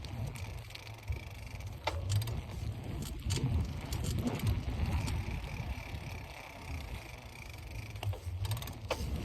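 Bicycle being ridden: a steady low rumble of wind and riding noise with scattered clicks and rattles from the bike. A faint high steady whine runs for a few seconds past the middle.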